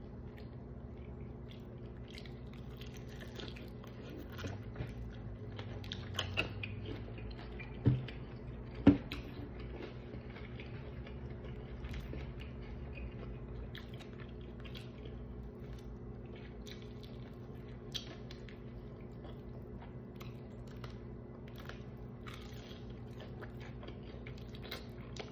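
A person chewing and biting into fried chicken: many small clicks and crackles over a steady low hum. Two sharper knocks stand out about eight and nine seconds in.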